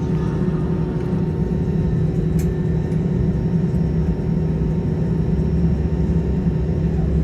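Steady low drone inside the cabin of an Airbus A320-215 rolling on the ground after landing, with a constant hum and a few fixed tones from its idling engines and systems.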